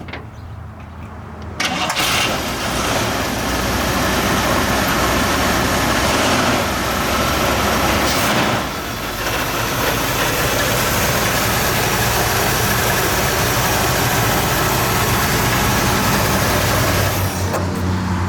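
1963 Cadillac Fleetwood 60 Special's 390 V8 starting from cold about a second and a half in, then running steadily at a high fast idle. The level dips briefly near the middle and drops to a lower, steady hum near the end.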